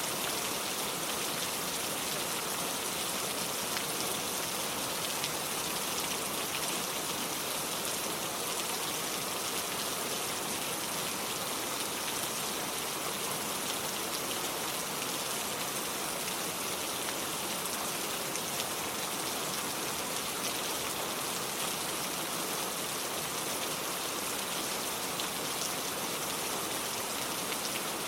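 Steady rain falling, an even, unbroken hiss of many drops with no change in strength.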